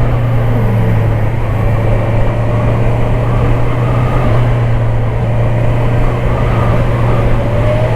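Motorcycle running at a steady engine speed with a steady low drone and wind rush over it.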